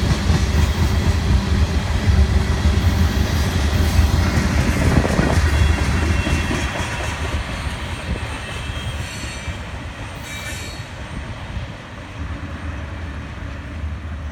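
Covered hopper cars of a freight train rolling past on steel wheels and rail, a steady low rumble. About halfway through, the last cars go by and the sound fades as the train draws away, with faint thin wheel squeal.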